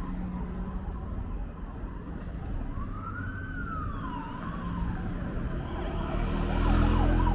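Street traffic rumble with a siren wailing once, its pitch rising and falling in the middle. Near the end a vehicle passes close and gets louder.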